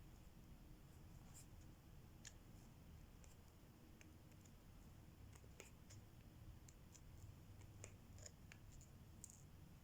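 Faint, irregular small clicks and taps of a diamond-painting pen picking up and pressing resin drills onto the canvas, over a low room hum.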